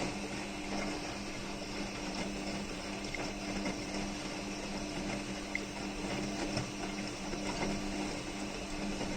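Hotpoint WMA46 front-loading washing machine in its main wash: water sloshing in the turning drum over a steady low motor hum, the motor noise that the owner finds odd.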